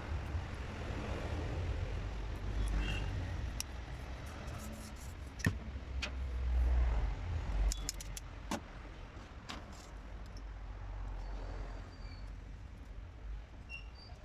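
Scattered light metallic clicks and clinks over a low rumble that swells about six to seven seconds in.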